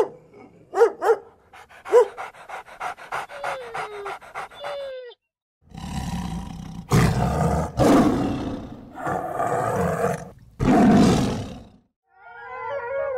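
Animal calls from successive clips. First comes a run of short, high-pitched calls in quick succession, some sliding down in pitch. After a brief break come four or five long, loud, rough calls, and near the end another animal's wavering call begins.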